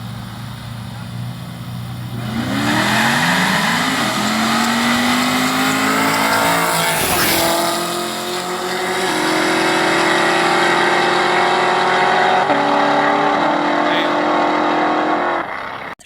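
Two V8 cars, a Camaro SS and a Corvette Stingray, launching side by side in a drag race: the engines rev up hard, pass close by about seven seconds in, and pull away with several stepped upshifts. The sound cuts off abruptly near the end.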